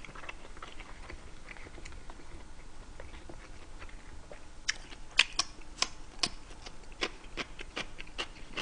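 A person chewing food close to the microphone, with wet mouth clicks and crunches. The clicks become sharper and more frequent about halfway through.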